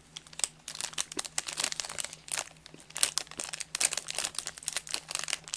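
Plastic candy pouch crinkling as it is handled, a dense run of irregular crackles starting about half a second in.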